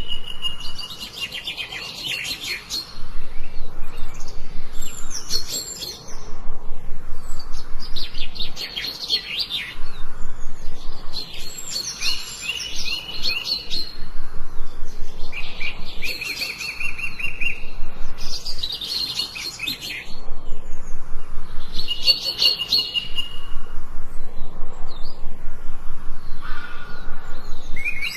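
Songbirds singing in a forest: a run of loud, high song phrases every few seconds, each a quick jumble of chirps, several ending in a fast trill on one note.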